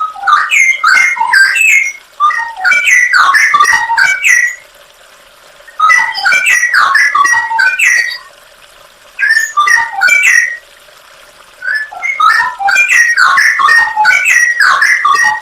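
Songbird song from a bird-training (masteran) recording: phrases of rapid chirping and warbling notes, each lasting a few seconds, with short pauses between them.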